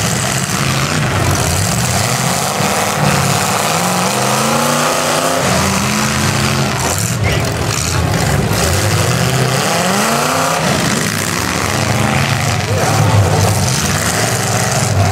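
Several demolition derby cars' V8 engines run and rev together, their pitch climbing and dropping as they accelerate and ram each other, with a sharp knock about seven seconds in.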